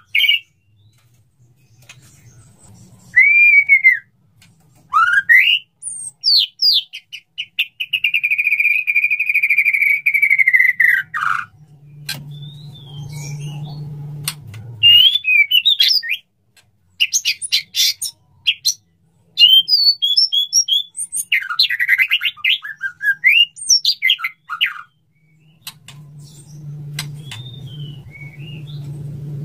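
Male white-rumped shama (murai batu) giving its courtship song to a female: varied whistled notes that glide up and down, one long held whistle of several seconds, and bursts of rapid chipping notes. A low hum comes in twice in the background.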